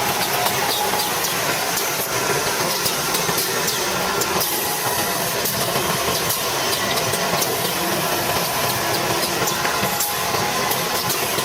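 Automatic washing-machine heater production line running: steady machine noise with a hiss and frequent small clicks.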